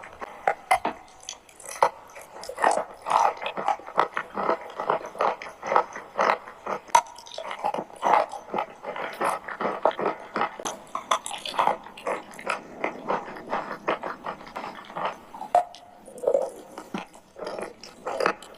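Close-up chewing of chalk mixed with clay paste: dense, irregular crunching and wet mouth sounds, several crunches a second, with a short lull about three-quarters of the way through.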